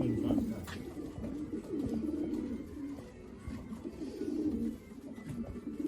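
Racing pigeons cooing, several low coos overlapping one another.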